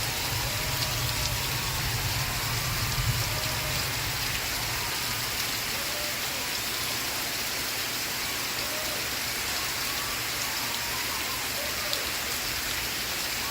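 Steady rain falling. Faint, muffled television audio sits under it, with a low rumble that swells in the first few seconds and then eases.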